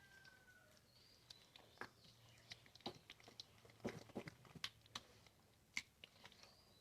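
Faint, irregular sticky squelches and clicks of a hand mixing a wet batter of mashed bananas, rice flour, semolina and milk in a bowl.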